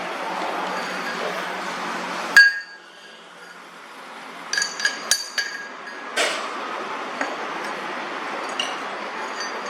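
Metal clinking in a lathe workshop: one sharp ringing metal strike, then a quick run of lighter ringing clinks and one more, as of steel parts or tools knocked together. A steady noise runs under it, drops out at the first strike and comes back after the clinks.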